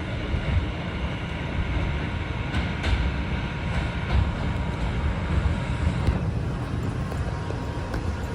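Inside an R142 subway car: a steady low rumble of the car, with a few faint knocks a few seconds in and a thin steady tone that comes in plainer near the end.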